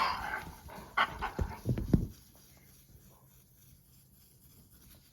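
A dog breathing and huffing briefly, with a few sharp knocks and thumps as it moves about within the first two seconds.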